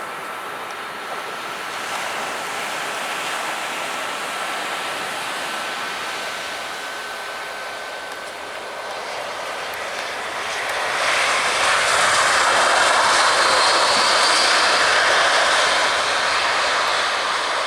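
Jet airliner's engines passing close, a steady rushing roar that builds and becomes much louder about eleven seconds in, with a faint high whine early on.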